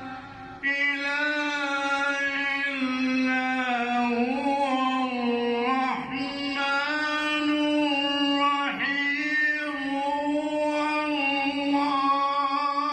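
A man chanting a Quran recitation in the melodic tajweed style, drawing out long held notes with ornamented turns, with short breath breaks about half a second in, near the middle, and about two thirds of the way through.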